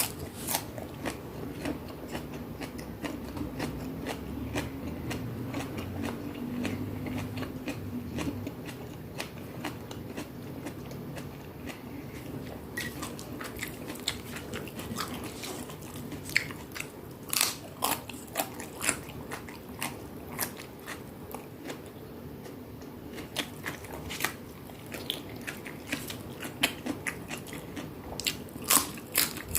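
Close-up chewing of crunchy food: irregular crisp crunches and mouth sounds while eating, with the crunches coming thickest near the end.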